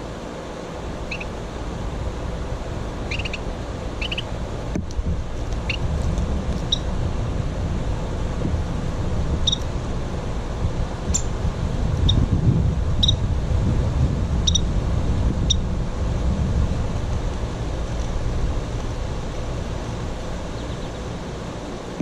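Short, high bird chirps, about a dozen scattered through the first two-thirds and ending about two-thirds in, over a louder low rumble that swells about halfway through.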